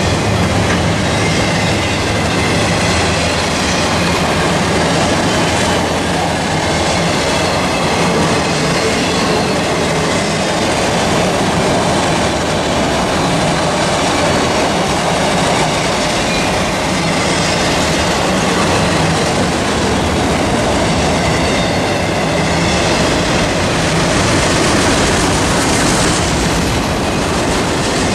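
CSX freight train's cars rolling past on the rails, a steady loud rumble of steel wheels on track with a clickety-clack over the rail joints.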